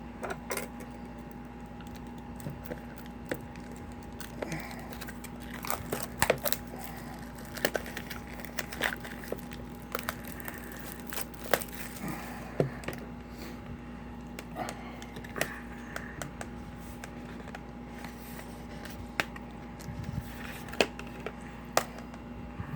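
Plastic shrink-wrap being torn open and peeled off a Steelbook case, with irregular crackling, crinkling and sharp clicks.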